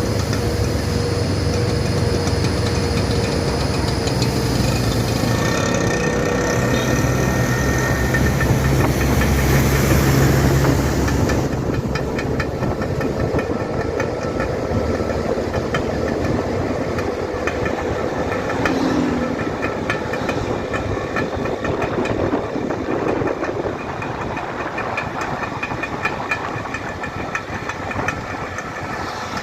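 A dump truck's engine and a Vespa scooter's engine running together. A heavy low rumble builds to its loudest about ten seconds in and eases off after about eleven seconds, leaving a lighter engine sound with a fast, even ticking.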